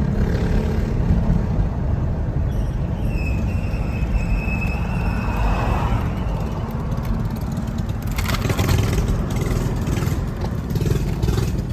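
Mini bike's small gasoline engine running with a steady low rumble, with a stretch of rapid clattering about two-thirds of the way through.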